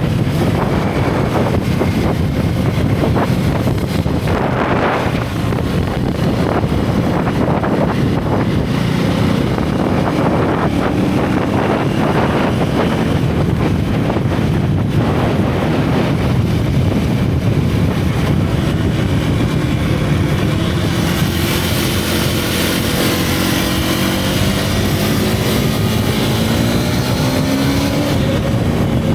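Single-cylinder motorcycle engine and exhaust under way, revs rising and falling as the bike is ridden through bends, with wind rushing on the microphone. In the second half the engine's pitch sweeps up and down more plainly and the wind grows louder.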